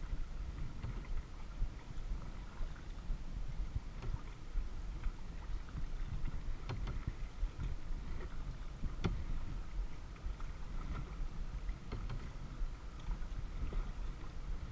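Kayak on a lake: paddle blades dipping and splashing in the water, with a few sharper splashes or knocks, the clearest about nine seconds in, over a steady low rumble.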